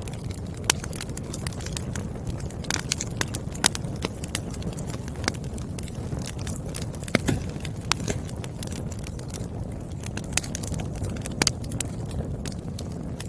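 Burning firewood crackling: irregular sharp pops and snaps from the logs over a steady low rumble of the fire.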